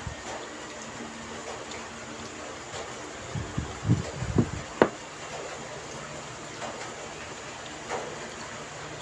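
Heavy rain falling steadily, an even hiss throughout. A few short, soft low sounds come about halfway through, then a single sharp click.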